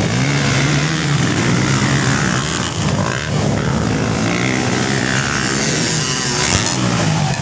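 Motocross dirt bike engines running hard and revving, the pitch rising and falling with the throttle.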